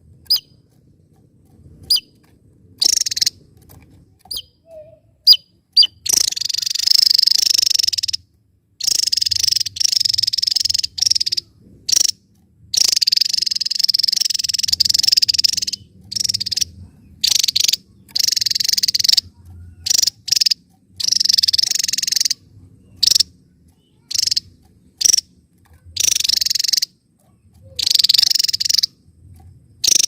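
Javan tesia singing: a few sharp single chirps at first, then repeated high, buzzy rapid trills lasting one to two seconds each, broken by short pauses.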